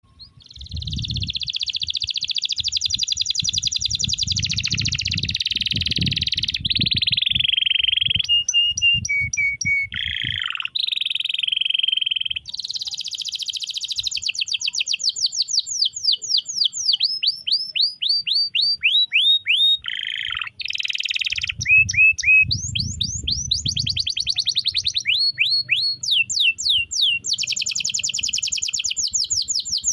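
Domestic canary singing a long continuous song: rapid buzzing trills and rolls, short held steady notes, and runs of quick downward-sweeping whistled notes repeated in series.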